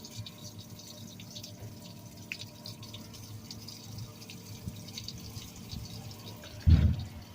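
Water dripping and trickling out of a tractor tire's open valve stem with its inner core pulled: moisture from the air compressor that has built up inside the tire. Near the end come two loud low thumps.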